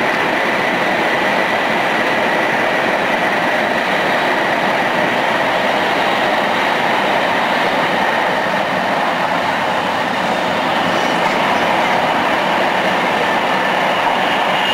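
Tohoku Shinkansen train running at speed: a steady, continuous rush of running noise, with a faint high whine in the first half.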